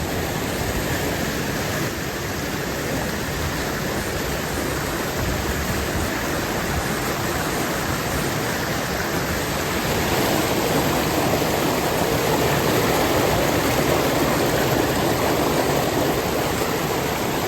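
Waterfall pouring into a pool, a steady, even rush of falling water, a little louder about ten seconds in.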